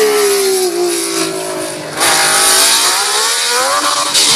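Historic Formula 1 car's racing engine: the pitch drops for about two seconds, then the engine comes back in suddenly and louder about two seconds in, revving up with rising pitch.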